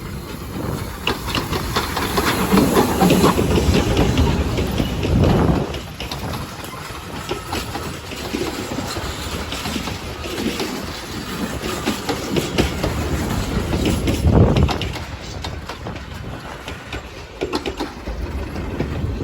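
Steam-hauled train running past, its wheels clattering over the rail joints, with heavier low swells of sound a few times.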